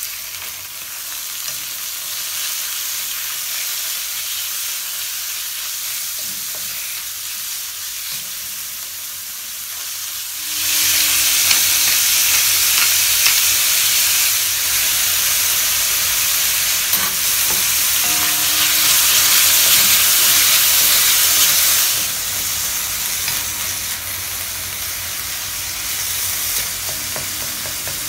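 Diced raw chicken sizzling in hot oil in a wok as it is stirred with a wooden spatula. The sizzle starts as the chicken goes in and gets louder for about ten seconds in the middle before settling back.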